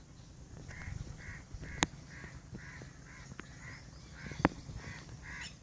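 A bird calling over and over in a fast, even series of short calls, about three a second. Two sharp clicks cut through it, one just under two seconds in and one past four seconds.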